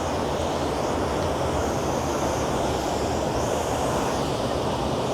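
Steady low-pitched roar of a nearby waterfall, an even rush of falling water.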